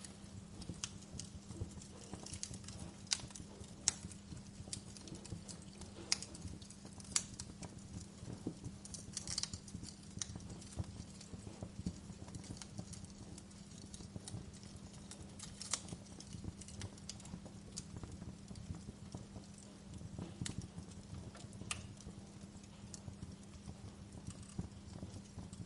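Fire crackling: irregular sharp pops and snaps, a few of them louder, over a steady low rumble of the flames.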